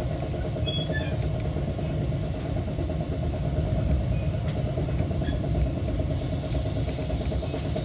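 Metra commuter train heard from inside a passenger car: a steady low rumble with a few faint clicks.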